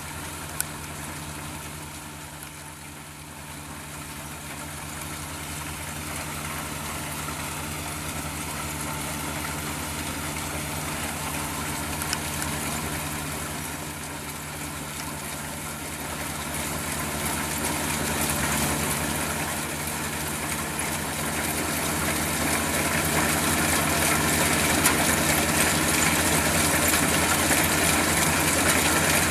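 Combine harvester's engine running steadily, growing gradually louder through the second half.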